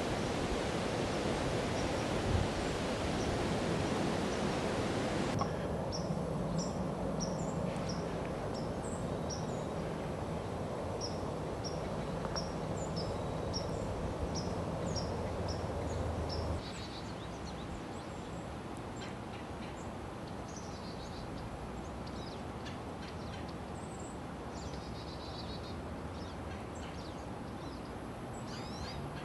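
A steady rushing noise that cuts off about five seconds in, followed by songbird chirps: a quick, evenly repeated high chirp over a low hum, then after a drop in level scattered softer bird calls.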